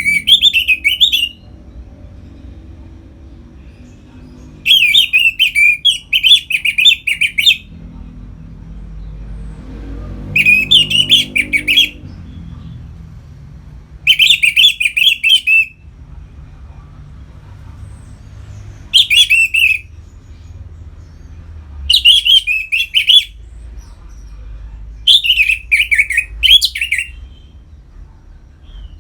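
Orange-headed thrush singing its full, open 'ngeplong' song in separate phrases of one to three seconds, about seven in all, with pauses of a few seconds between them. A steady low hum runs underneath.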